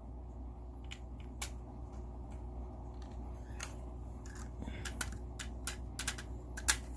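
Hard plastic LEGO pieces clicking and tapping as clips are snapped onto the trailer: scattered sharp clicks, more frequent in the second half, over a low steady hum.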